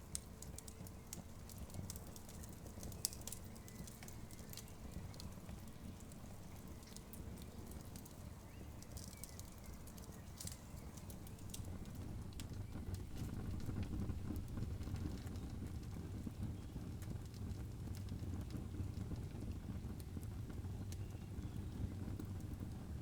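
Wood campfire crackling, with irregular sharp pops and snaps over a low rumble that grows louder about halfway through.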